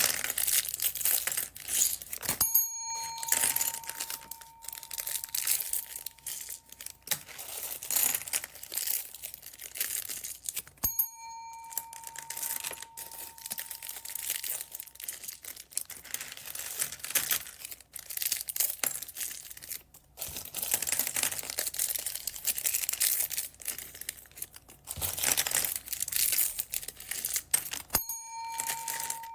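Plastic bags of beads crinkling and rustling as they are handled, with small clicks. Three times a short gap is followed by a bell-like chime that rings on for a few seconds.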